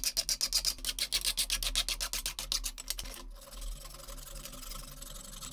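Rapid rhythmic scraping strokes, about eight a second, stopping about three seconds in. After them only a faint hiss and a low steady hum remain.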